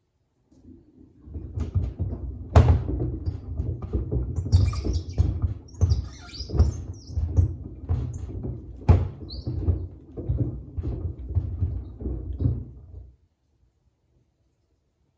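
Samsung WD70T4047CE washer-dryer drum turning through a wash with two pairs of sneakers tumbling inside: a low rumble with repeated thuds and a few sharper knocks as the shoes drop against the drum and door glass. It starts about half a second in and stops about 13 seconds in, as the drum pauses between turns.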